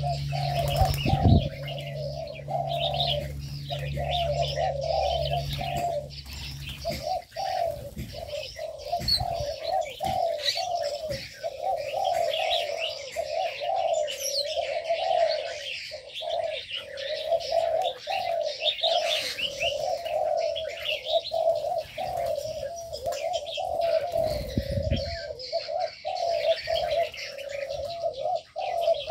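Several doves cooing over one another in a continuous chorus, with small birds chirping higher above them. A low hum runs under the first few seconds, and there are dull thuds about a second in and again near the end.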